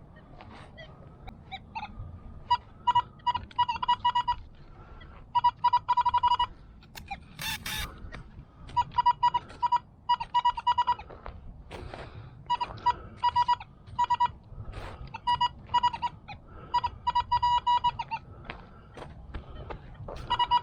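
Metal detector sounding its target tone: rapid chattering beeps at one fairly high pitch, coming in clusters a second or two long, again and again as the coil sweeps back and forth over a buried target. A short rasping crunch about seven and a half seconds in.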